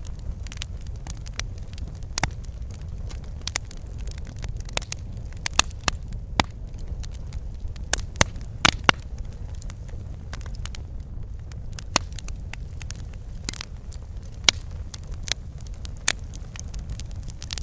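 Wood fire crackling in a fireplace: a steady low rumble of burning with irregular sharp pops and snaps, a run of louder pops about halfway through.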